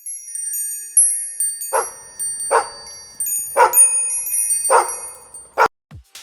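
Tinkling chime tones with four dog barks about a second apart, then a click and a short falling low tone near the end.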